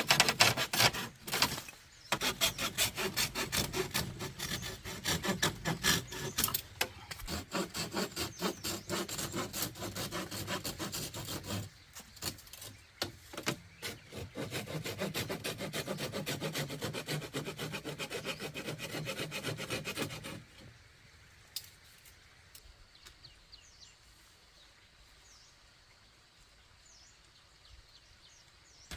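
Hand saw cutting bamboo with quick back-and-forth strokes that stop about twenty seconds in, leaving only a few faint taps.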